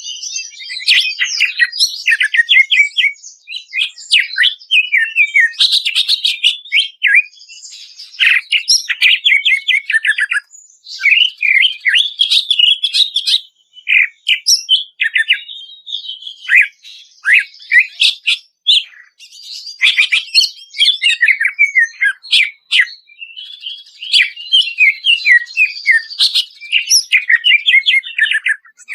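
Cucak ijo (green leafbird) singing vigorously: loud, rapid runs of clear whistled notes and quick downward sweeps, in phrases broken by short pauses.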